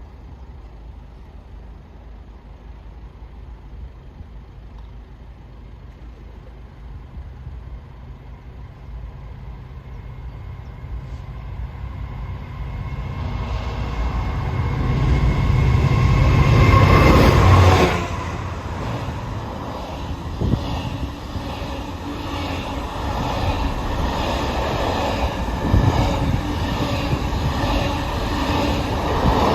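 Freight train approaching and passing: a low rumble grows louder until the locomotive goes by, loudest about two-thirds of the way in, then drops suddenly to the steady rolling clatter of the wagons going past.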